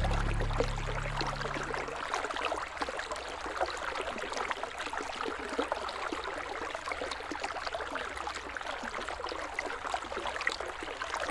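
River water flowing, a steady babble with many small splashes and gurgles. A tail of low held music tones fades away in the first two seconds.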